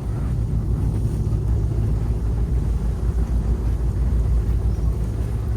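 Tour boat's engine running steadily, a loud low drone with no change in pitch.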